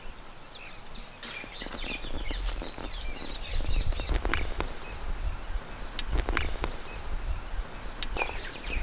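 Small birds chirping repeatedly over outdoor ambience, with a few sharp clicks and a low rumble.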